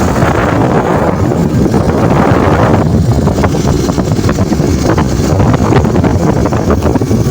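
Motorcycle engine running while on the move, with heavy wind buffeting the microphone.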